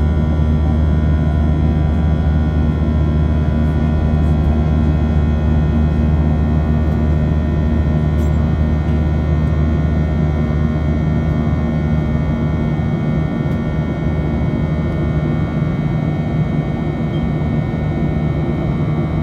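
Cabin noise of a Boeing 737-700's CFM56-7B jet engines in flight: a steady loud drone with a low hum and a set of steady whining tones above it, the low hum easing a little past the middle.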